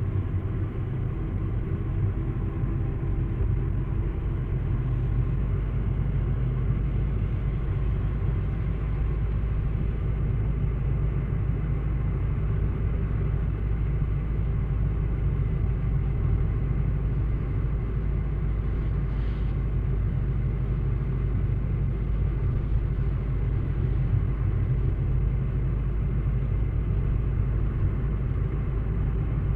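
A steady low rumble that holds unchanged throughout.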